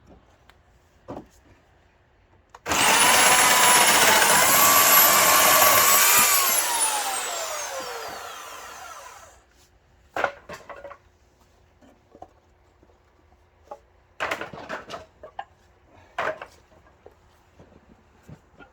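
Electric saw motor started and run for about four seconds, its pitch stepping up as it speeds up, then sliding down as it winds down over a few seconds. Several sharp knocks and clatters of wood follow near the end.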